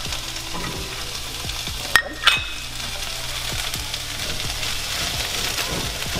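Turkey sausage links sizzling steadily as they brown in a hot oiled nonstick frying pan, with two sharp clicks about two seconds in.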